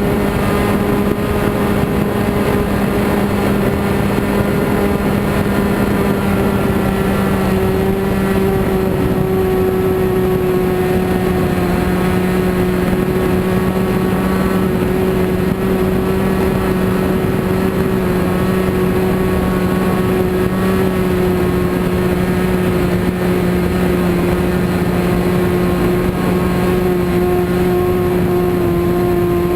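RC model airplane engine running steadily at an even pitch that sinks very slightly over the half minute.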